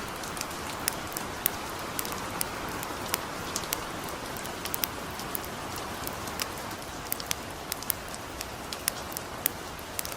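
Light rain falling steadily, mixed with a wood fire crackling: sharp, irregular pops about one or two a second over the rain's even hiss.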